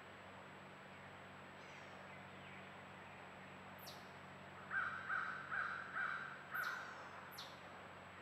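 A bird calls five times in a quick, even run, about two calls a second, with three short high chirps that fall steeply in pitch, over a steady background hiss.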